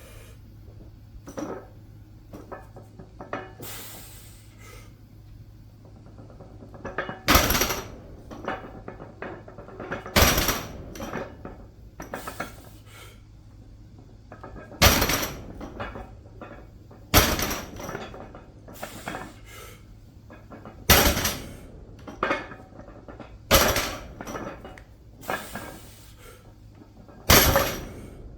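Loaded barbell's weight plates clanking and rattling during a set of 1.5-rep deadlifts: seven loud metallic clanks a few seconds apart, with lighter knocks and rattles between them.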